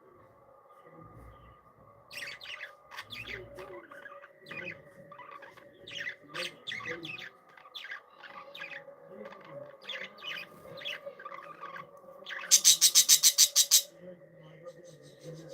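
Budgerigars chirping and chattering, a quick string of short calls starting about two seconds in. Near the end comes a loud, rapid run of about ten sharp notes, the loudest sound, over a faint steady hum.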